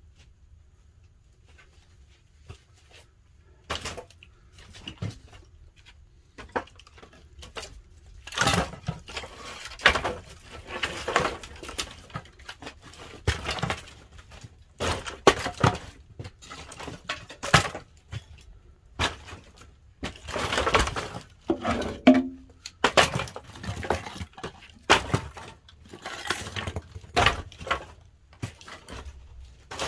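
Pine firewood crackling and popping in the firebox of a wood-fired kiln: a few scattered pops at first, then from about eight seconds in a dense, irregular run of sharp cracks.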